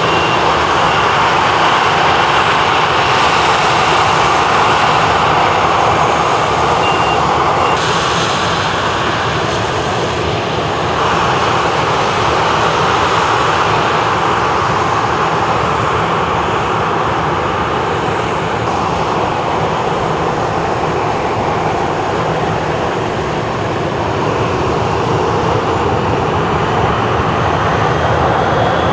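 A loud, steady engine-like running noise with no break, shifting in tone about eight seconds in and again about three seconds later.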